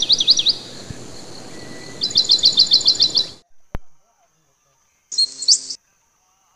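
Bird chirping: a run of quick downward-sweeping chirps, then a rapid trill of about ten notes a second, cutting off abruptly about three and a half seconds in. A short, high, separate sound follows about five seconds in.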